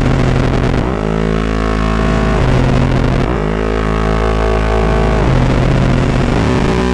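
Handmade analog drone/noise synth (Metsään Dirty Drone) putting out a loud, buzzing drone that is played through its body contacts. Twice it jumps from a low steady hum to a denser, brighter chord of tones, sliding in and out of pitch at each change, then falls back.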